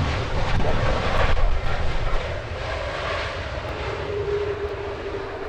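Jet airliner's engines at takeoff power: a loud, steady rush that is strongest for the first two seconds and then eases, with a steady hum joining near the end.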